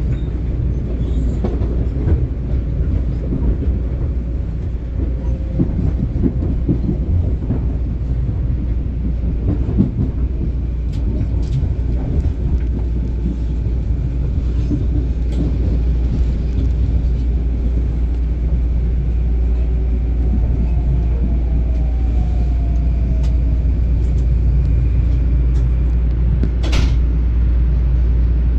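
Long Island Rail Road train passing: a loud, steady low rumble with wheel clatter through the first half, settling to a smoother rumble, with one sharp clack near the end.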